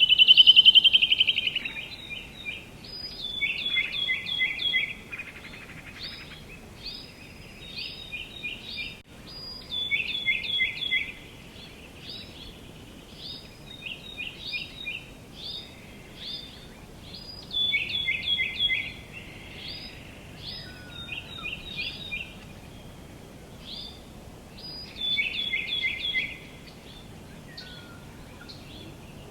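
Songbirds singing: a repeated phrase of several quick, downward-slurred notes comes every few seconds, with short high chirps scattered between. A loud buzzy trill opens the stretch.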